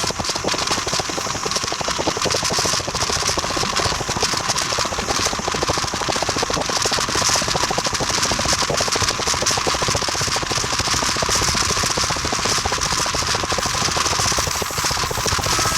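Train running at speed: a loud, steady, fast rattle of running gear on the rails. A train's warning signal starts sounding right at the end.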